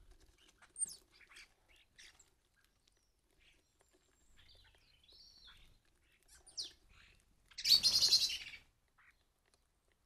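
Garden birds calling: scattered short high chirps, a whistle that rises and falls around the middle, then a loud harsh burst lasting about a second near the end.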